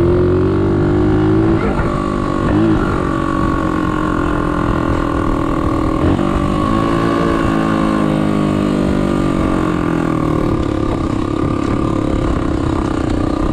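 Chinese 125cc pit bike's single-cylinder four-stroke engine running while riding, at a fairly steady pitch with a few brief rises and dips of the throttle.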